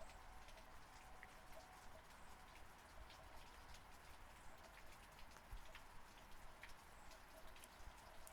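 Faint, steady light rain falling, with many separate drops ticking.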